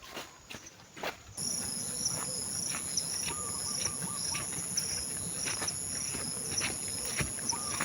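Scattered crunching clicks, then about a second and a half in a steady, high-pitched chorus of forest insects starts suddenly with a repeated chirp under it. The crunching clicks carry on over the chorus.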